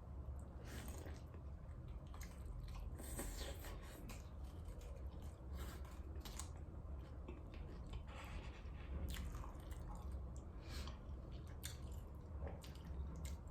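Close-miked chewing and biting of birria tacos: many irregular wet, crackly mouth sounds.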